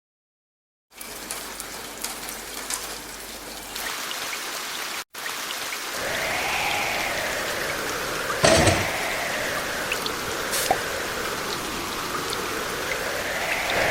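Storm sound effect: steady rain hiss. About six seconds in, a wind howl joins it, swelling and fading in slow waves, with a single thump just past eight seconds.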